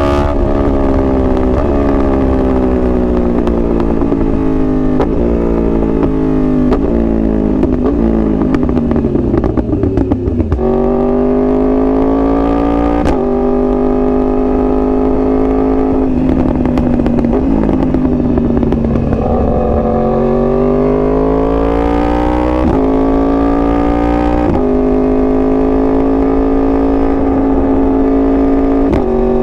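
2021 Yamaha R1's crossplane inline-four engine. Its pitch slides down with small stepped jumps as it slows through downshifts, then jumps up and holds steady at higher revs. About halfway through it eases off and drops, then picks up again and holds.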